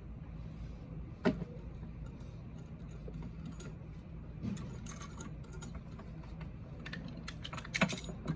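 Scattered light clicks and taps over a steady low hum, with a sharp click about a second in and a quick run of clicks near the end.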